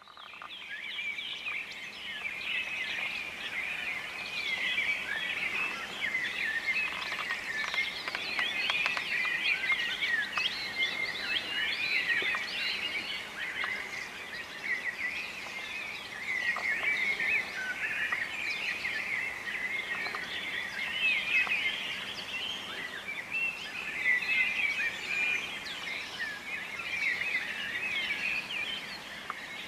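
Birds chirping continuously, many short calls overlapping.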